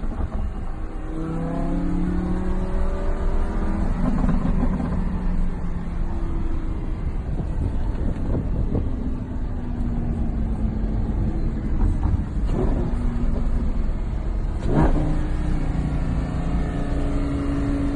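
Car engines running, several tones drifting slowly up and down in pitch as the cars rev and move, over a constant low rumble.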